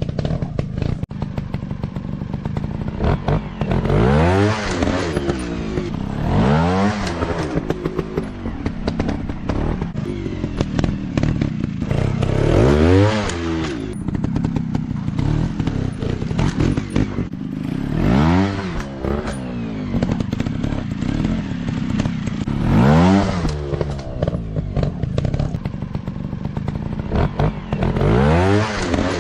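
Small-displacement dirt bike engine revving in repeated bursts, about six times, each rise in pitch dropping back, over a steady running note, with clattering and knocks between them.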